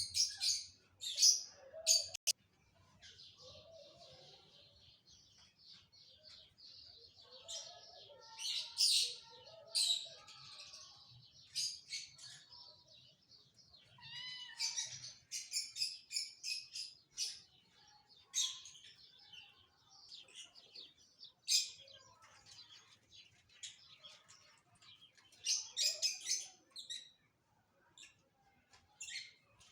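Small birds chirping and twittering in short, high, repeated calls, coming in clusters with quieter gaps between them.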